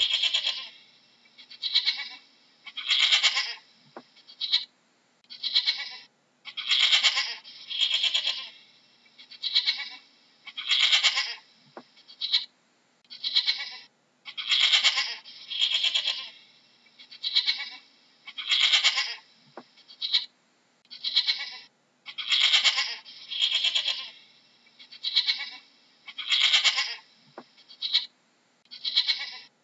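Goat bleating over and over: a quick series of short, high-pitched bleats, roughly one a second.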